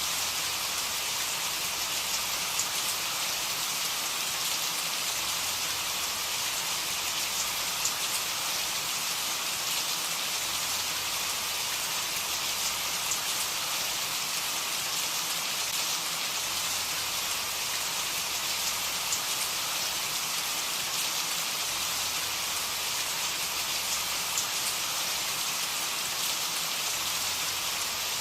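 Steady rain falling, an even hiss with faint patter of individual drops.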